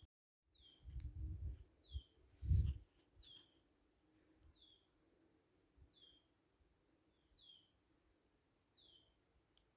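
A small songbird repeating a short two-part chirp, a flat high note then a falling note, about once every 0.7 seconds. Low dull thumps come in the first few seconds, the loudest about two and a half seconds in.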